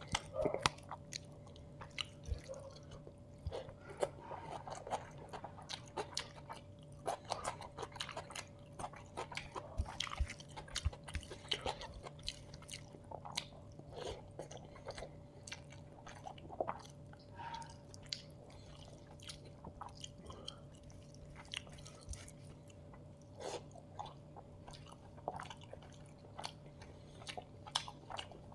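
Close-miked chewing and mouth sounds of someone eating chicken biryani with curry gravy and onions: repeated wet smacks, bites and occasional crunches throughout. A faint steady hum runs underneath.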